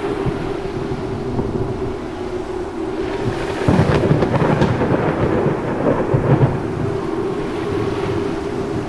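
Thunderstorm: a steady wash of rain, with a roll of thunder that swells about three and a half seconds in and rumbles for a few seconds with some sharp crackles.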